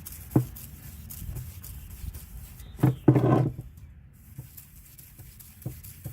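Sanding pad with 3000-grit paper rubbing up and down on a wet plastic headlight lens, with a sharp knock near the start and a louder brief rasp about three seconds in.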